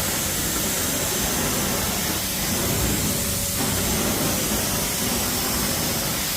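Hot-water carpet extraction machine running, its cleaning wand giving a steady rushing hiss of suction and spray as it is worked over the carpet.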